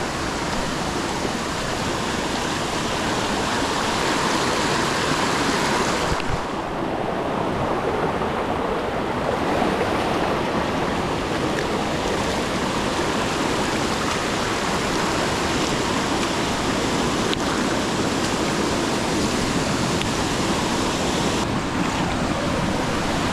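Steady rushing of a fast-flowing stream, with the upper hiss thinning briefly about six seconds in.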